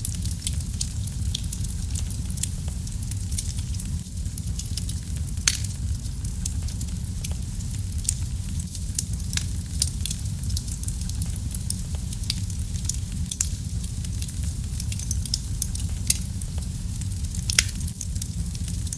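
Wood fire in a fireplace burning and crackling: a steady low rumble of flames under a constant scatter of sharp pops and snaps, with a few louder pops along the way.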